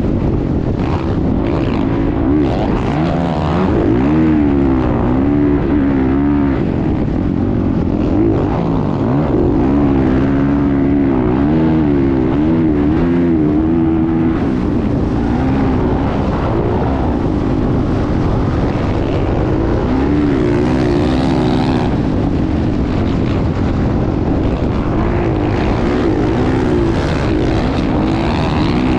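Motocross motorcycle engine running hard, its pitch climbing and dropping again and again as the throttle is worked and gears are changed.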